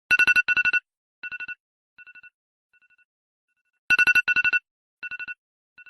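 Electronic telephone-style ring: two quick trilled rings, then fainter and fainter repeats like an echo. The pattern starts over loudly about four seconds in and fades again.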